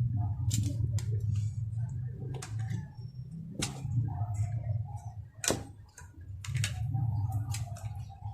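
Scattered sharp clicks and taps of small gun parts being handled while a gel blaster is taken apart, over a steady low hum.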